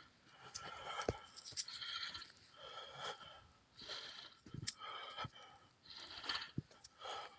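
A hiker breathing hard and wheezily while walking, with about one breath a second. There are occasional faint steps or twig snaps underfoot.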